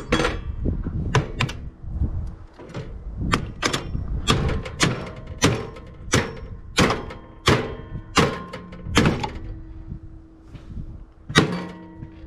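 Hammer blows on scrap metal from a gutted microwave: a steady run of sharp strikes, roughly two a second, some with a short metallic ring, then a pause and one last hard hit near the end.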